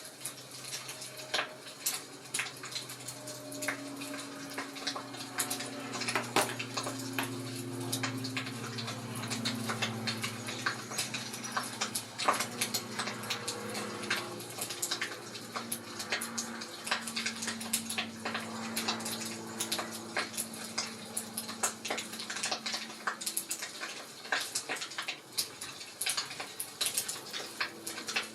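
Fireplace crackling: a steady stream of irregular sharp pops and snaps from burning wood, with a low hum underneath through most of it.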